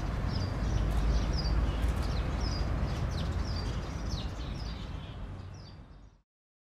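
Small birds chirping, short high falling calls about twice a second, over a steady low outdoor rumble. The sound fades and cuts off just after six seconds.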